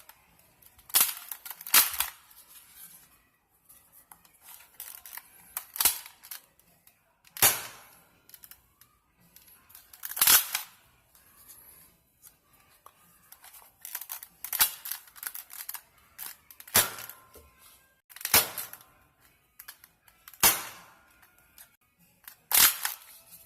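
Nerf blaster firing foam AccuStrike darts one at a time through a chronograph barrel attachment: about ten sharp shots, each a second or more apart.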